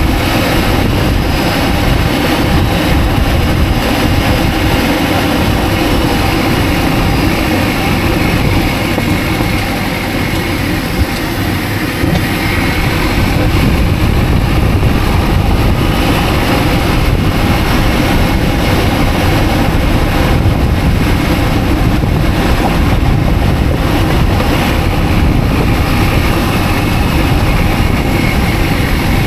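Mini Cooper S (R52) running, a steady loud engine and vehicle rumble with no change in pitch. The car is being checked for a front-left knock that the owner suspects is a worn driveshaft.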